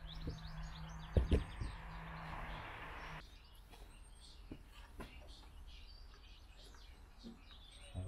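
Small birds chirping in the background, with two quick knocks a little over a second in. A steady low hum and hiss stops abruptly about three seconds in, leaving the birds and a few faint clicks.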